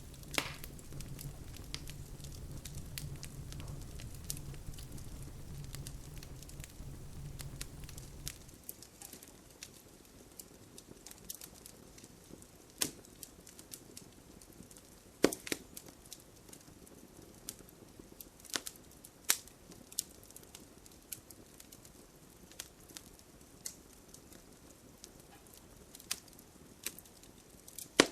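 Wood fire crackling, with irregular sharp pops, a few of them louder, over a soft hiss. A low steady rumble runs underneath for the first third and cuts off suddenly.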